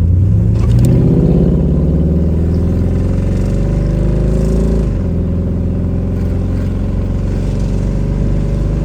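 The 1969 Pontiac Firebird's 350 V8 accelerating, its pitch rising steadily, then dropping suddenly about five seconds in as the automatic transmission upshifts, before it pulls on again.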